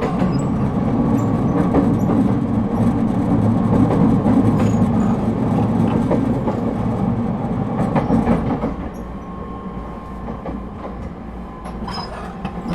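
Running noise heard inside the car of an ET127 series electric multiple unit: steady rumble of wheels on rail with a few sharp clicks from the track. The rumble drops noticeably about nine seconds in.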